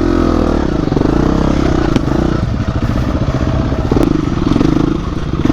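Dirt bike engine running under load on a trail, its pitch rising and falling as the throttle is worked, with a couple of sharp knocks from the bike about two and four seconds in.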